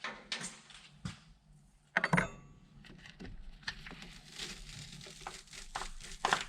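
Hand tools at work on heavy battery cable: a few clicks and knocks, a sharp metallic knock about two seconds in, then a longer stretch of scraping and clicking.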